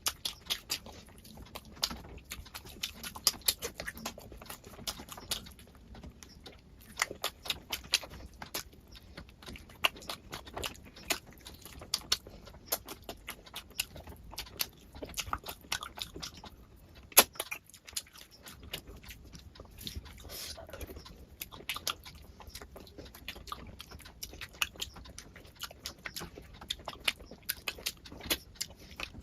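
Close-miked eating sounds of a person chewing rice and curry: many wet mouth smacks and sharp clicks in quick, irregular succession, with one louder click about 17 seconds in.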